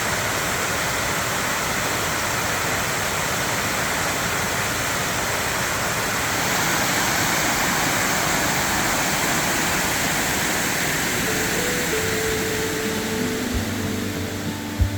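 Waterfall: a steady, even rush of water falling over rocks. Plucked guitar music fades in near the end.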